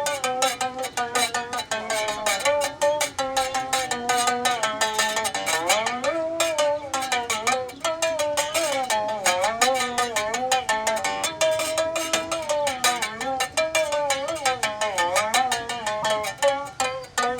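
Berimbau being played: fast, steady strikes on its string, with the pitch sliding up and down in a wandering melody.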